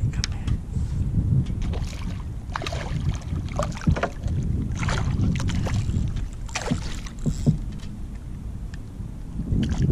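Water splashing irregularly around a kayak, over a steady low wind rumble on the microphone.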